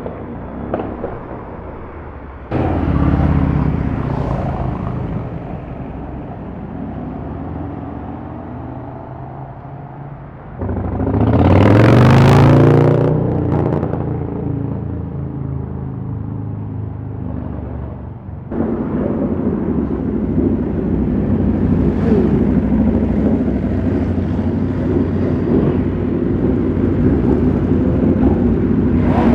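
Motorcycle and street-traffic engines running, broken by several abrupt cuts. About twelve seconds in, a loud vehicle passes close by, its engine swelling and then fading over about two seconds.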